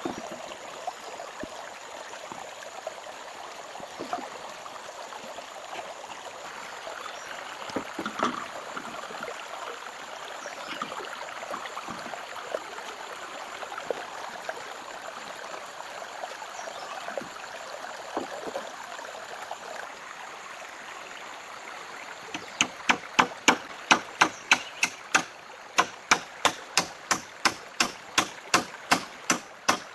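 Steady rush of a stream with a few scattered small knocks. From about two-thirds of the way in, rapid, evenly paced chopping strokes on wood, a little over two a second, become the loudest sound and keep going.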